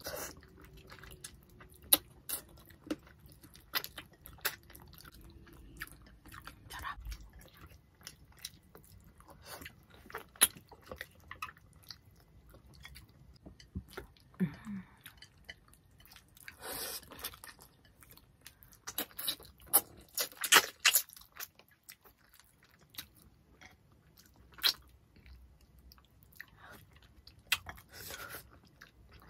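Close-miked chewing of people eating tilapia cooked in coconut milk with their hands: an irregular run of wet mouth clicks, smacks and small crunches.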